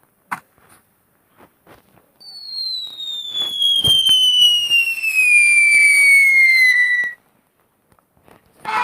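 A long whistle sound effect gliding steadily down in pitch for about five seconds, then cutting off suddenly, with a short click near the start and a dull thump partway through the whistle.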